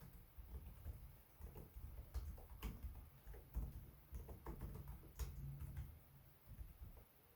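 Typing on a Lenovo Legion 5 Pro laptop keyboard: soft, irregular key taps in quick runs, which stop a little before the end.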